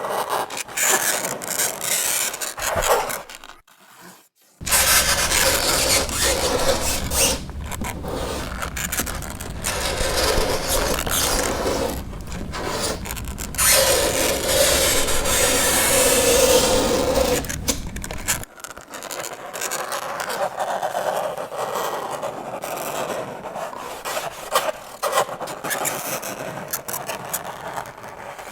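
Fingernails scraping across a chalkboard in a run of rasping strokes. There is a short break about four seconds in, and a held squeal rises out of the scraping about two-thirds of the way through.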